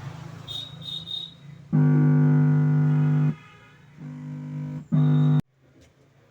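Loud, steady electrical hum from the amplifier board's connected speaker, coming on three times: a long stretch, a short quieter one, then a short loud one that cuts off suddenly. It is the humming fault the powered home theatre board shows while its open pin is shorted.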